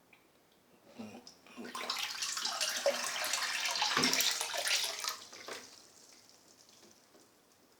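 Water pouring into a tub or container for about three and a half seconds, starting and stopping fairly abruptly, with a few light knocks around it.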